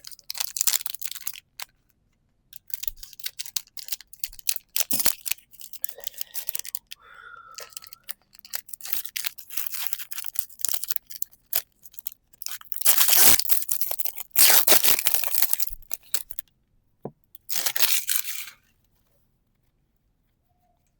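A Pokémon TCG booster pack's foil wrapper being crinkled and torn open, with rustling as the cards are handled. The loudest, longest tearing comes about two-thirds of the way through, and the sound stops a couple of seconds before the end.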